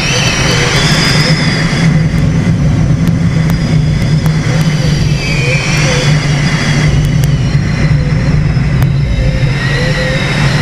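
Engine of a small aircraft running steadily in flight, with air rushing over the microphone.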